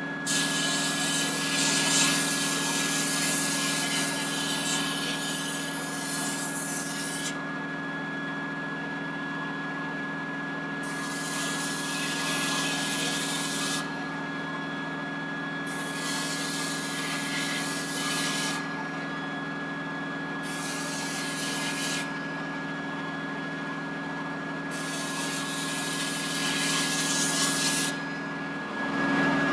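Sandblasting: five bursts of hissing air and grit, each switched on and off sharply. The first lasts about seven seconds and the later ones one to three seconds, over a steady machine hum.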